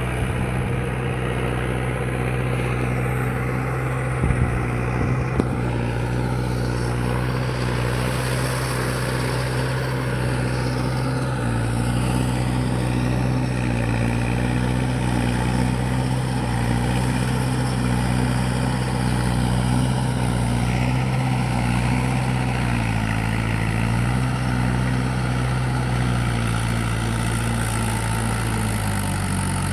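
Mahindra 585 tractor's diesel engine running steadily, its pitch dipping briefly and recovering a few times, around 11 s, 23 s and near the end. A few sharp knocks come about four to five seconds in.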